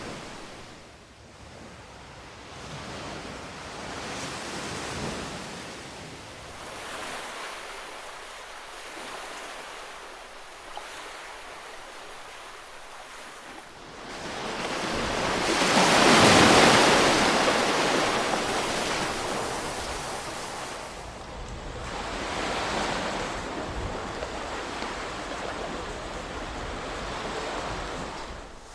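Ocean waves washing onto a shore in slow swells that rise and fall. The largest wave builds a little past halfway and breaks loudest about two-thirds of the way in, with smaller swells before and after.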